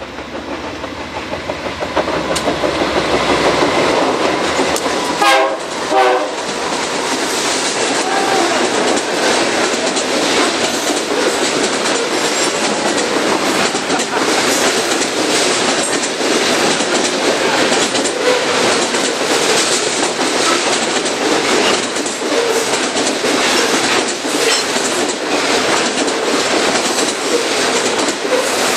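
A train passing close by: the locomotive's horn gives two short blasts about five seconds in, then the train rolls past with a steady clatter of wheels over the rail joints.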